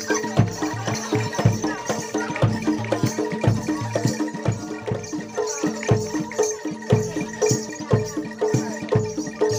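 Live traditional Javanese kuda lumping music: a percussion ensemble beating a steady rhythm of about two strokes a second over sustained pitched tones, with shaken rattling percussion.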